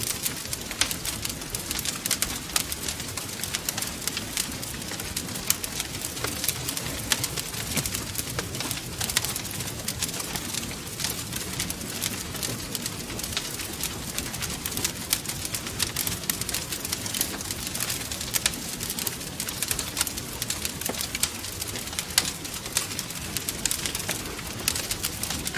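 Fire crackling in a fireplace: frequent sharp snaps and pops over a steady low rumble of flame.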